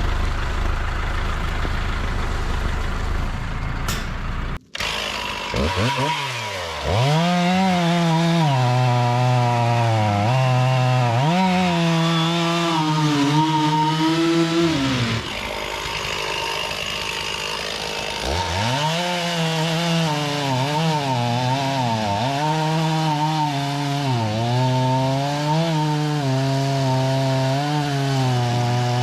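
Stihl chainsaw cutting wood, its engine note dipping and recovering again and again as it loads in the cut, and easing off for a few seconds midway. Before it, for roughly the first five seconds, a low steady engine rumble.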